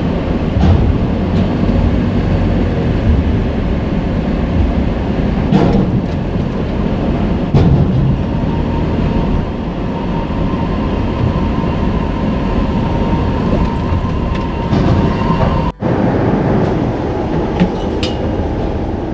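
Steady loud low rumble of engines and machinery on a car ferry's vehicle deck during boarding, with a few knocks and clanks and, midway, a faint steady whine.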